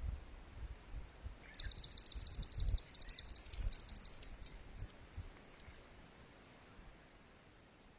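African bush ambience: a high, rapidly pulsed chirping trill repeats in phrases for a few seconds, with low rumbles early on, then fades to a quiet steady background.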